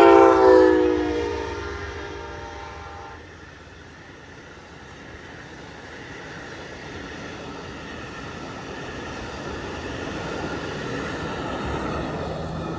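Amtrak passenger locomotive's horn sounding one long blast of about three seconds, its chord dipping slightly in pitch, followed by the passenger train rumbling along the rails, growing louder again near the end.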